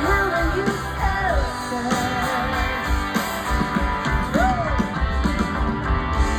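Live rock band playing through a festival PA: electric guitars and drums, with a voice singing sliding, drawn-out notes over the top.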